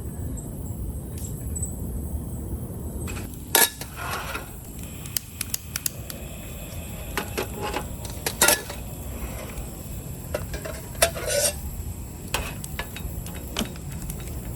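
Metal cookware and utensils clinking and knocking against each other in scattered single strikes, the loudest a little over three seconds in and about halfway through, over a steady low background noise.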